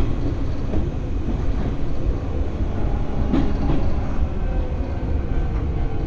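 Interior running noise of an Izuhakone Railway Sunzu Line electric train: a steady rumble of wheels on rail with a faint motor hum, and a brief knock of the wheels over a rail joint about three seconds in.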